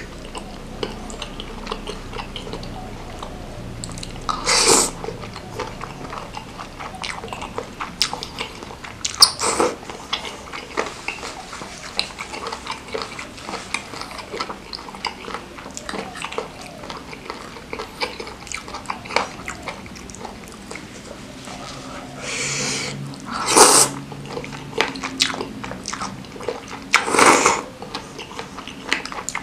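Close-miked chewing and wet mouth sounds of a person eating spicy seblak with meatballs: many small smacks and clicks. Four louder breathy bursts stand out, about four and nine seconds in and twice near the end.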